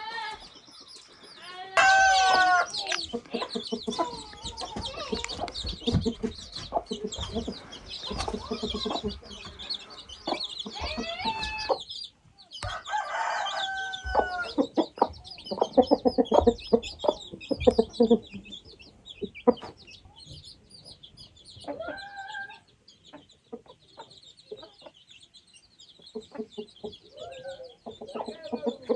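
Chickens clucking, with a rooster crowing among them; loud calls come about two seconds in and again near the middle.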